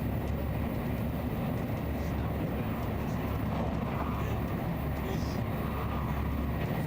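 Nozomi Shinkansen bullet train running: a steady low rumble.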